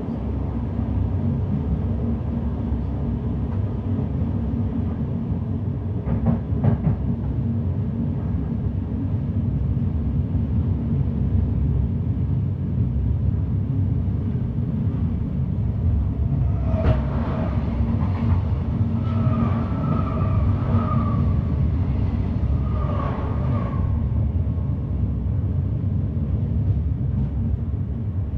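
Passenger train running along the line, a steady low rumble heard from on board. There is a sharp clack about six and a half seconds in, and a few brief higher-pitched tones about two-thirds of the way through.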